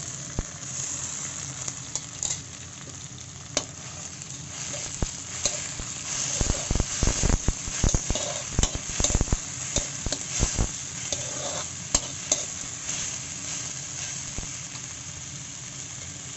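A wet paste of tomato, garlic and chilli sizzling in hot oil with fried onions in a wok. A metal spatula stirs it, scraping and knocking against the pan, busiest and loudest in the middle stretch.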